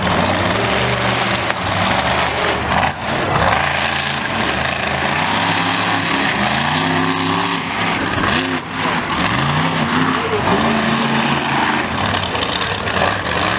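Loud vehicle engines at a speedway, one revving up and falling back several times, mostly in the second half, over a steady roar of engine noise.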